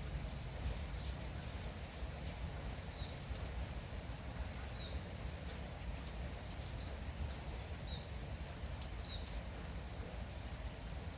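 Light rain falling with a steady hiss, while a bird gives short, high chirps about every second. A few sharp drip clicks come through now and then.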